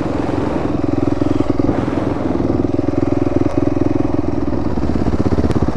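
Dirt bike engine running under way at a fairly steady speed, with a fast even pulse and a couple of brief dips in throttle.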